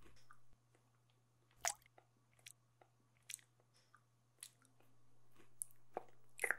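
A person chewing and biting food close to the microphone: soft, irregular crunches and mouth clicks roughly once a second over a faint low hum.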